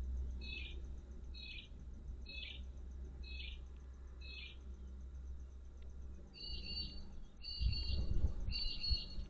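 A bird calling: five short high chirps about a second apart, then three longer two-part calls near the end, over a low steady rumble.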